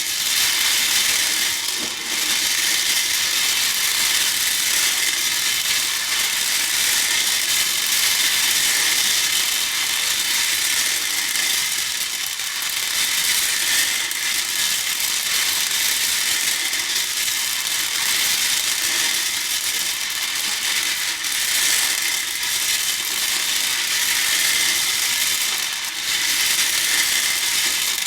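Hair beads rattling and clattering against a bowl in a dense, continuous stream of tiny clicks.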